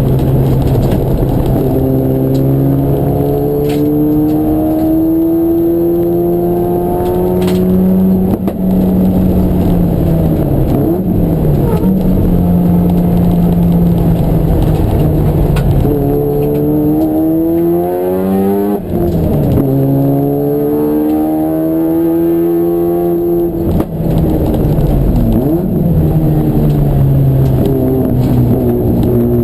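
Race car engine working hard through the gears. Its pitch climbs under acceleration and drops sharply at upshifts, about eight seconds in and again near nineteen seconds, with falling and steady stretches between as it lifts off and pulls again.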